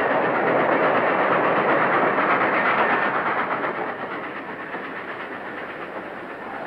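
Train running at speed, a dense rushing clatter heard through an old film soundtrack, fading down about four seconds in.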